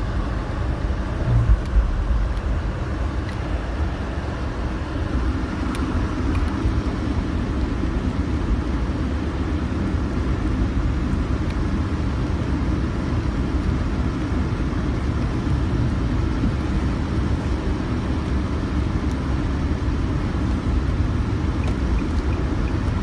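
Steady low rumble of a car being driven: road and engine noise, with a few faint ticks.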